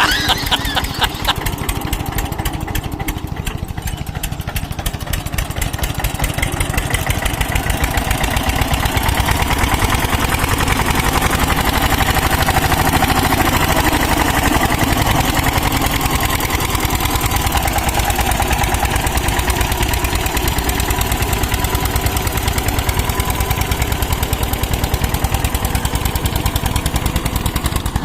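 Tractor diesel engine running with a steady, rapid firing beat. It grows louder a few seconds in and then holds.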